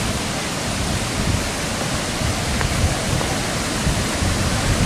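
Jagala waterfall's falling water rushing in a steady, even noise, with an uneven low rumble underneath.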